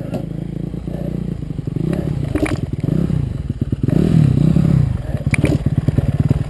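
Dirt bike engine running, its revs rising and falling several times, with a couple of sharp clicks.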